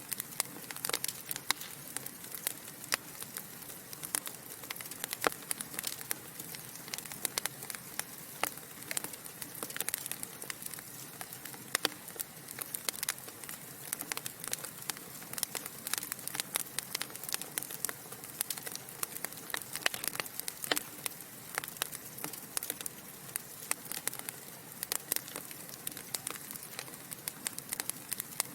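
Wood fire burning in a fireplace: a steady low hiss with dense, irregular crackles and pops from the burning logs.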